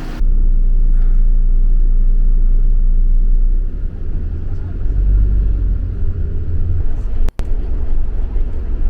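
Bus engine and road rumble heard from inside the moving bus, a steady deep rumble with a hum over it for the first few seconds. The sound cuts out briefly about seven seconds in.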